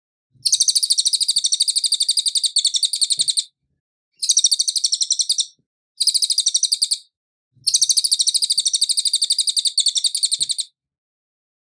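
Cililin songbird singing in four bursts of very fast, high trilled notes. The first and last bursts run about three seconds each and the middle two are shorter, with brief pauses between them.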